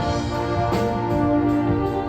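Indoor winds ensemble of brass and woodwinds playing sustained chords, with a new chord entering a little under a second in.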